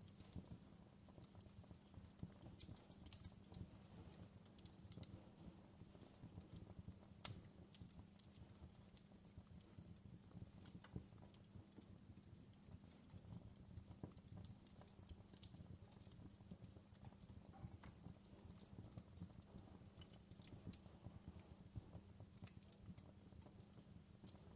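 Faint fireplace crackling: irregular small pops and snaps of burning wood over a steady low rumble.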